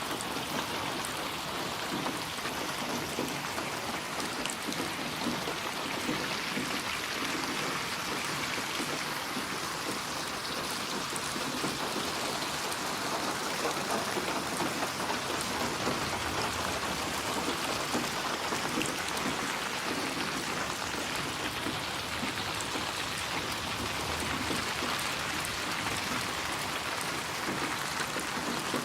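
Steady rain falling, an even hiss of many drops with faint patters on a surface.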